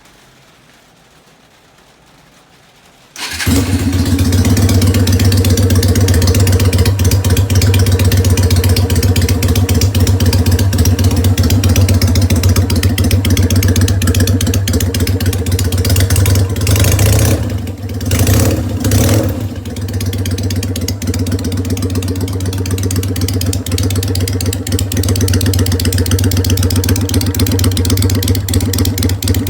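Yamaha DragStar 250's air-cooled V-twin starting up about three seconds in and then running loudly through straight-piped slash-cut mufflers, with a few brief throttle changes a little past the middle.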